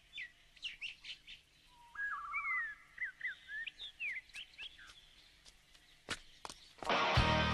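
Birds chirping, several short chirps and a brief trill, with two sharp taps about six seconds in. Music starts near the end.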